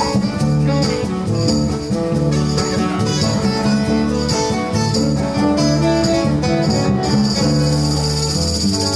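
Live band playing an instrumental passage with guitar and fiddle.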